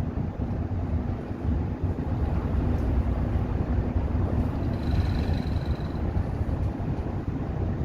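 Express bus running on the highway, heard inside the cabin: a steady low rumble of engine and road noise. A faint high whine comes in briefly about five seconds in.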